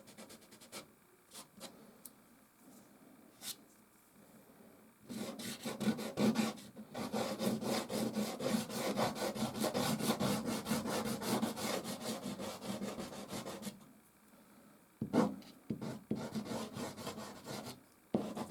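Soft pastel scraping and rubbing across canvas: a few isolated light strokes, then from about five seconds in roughly eight seconds of rapid back-and-forth strokes, then scattered strokes again with a short flurry near the end.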